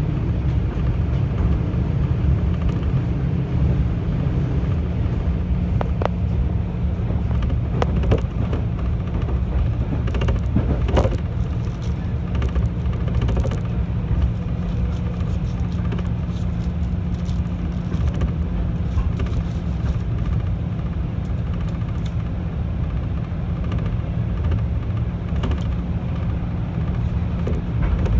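Inside a JR 211 series electric train running on the line: a steady low rumble and hum, with a few sharp clicks from the running gear on the track scattered through.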